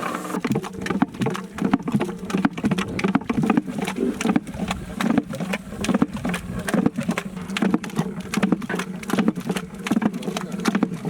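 Thick chicken haleem being worked in a large pot, with rapid, irregular wet slaps and knocks over a steady low drone.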